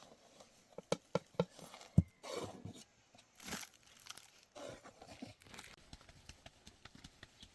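Scattered knocks and rustling handling noises, with the sharpest knock about two seconds in.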